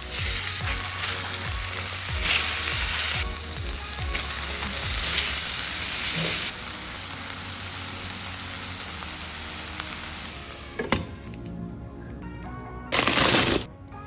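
Chicken frying in a pan, sizzling steadily for about ten seconds before dying down. A short, loud hiss comes near the end.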